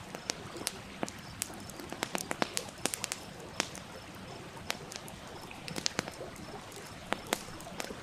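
Wood campfire crackling with irregular sharp pops, thickest about two to three seconds in and again near the end, over the steady rush of a stream.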